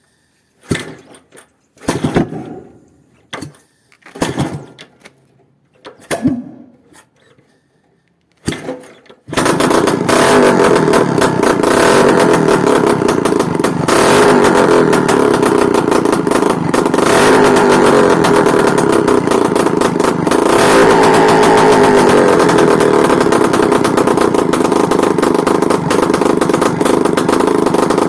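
Izh Planeta Sport single-cylinder two-stroke motorcycle engine on its first start after assembly: it fires in six short bursts on separate start attempts, then catches about nine seconds in and keeps running.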